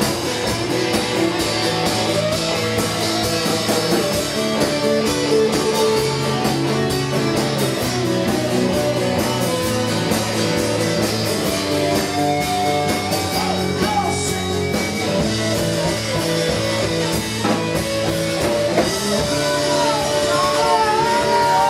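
A live band playing a rock song, with guitars and drums, steady throughout.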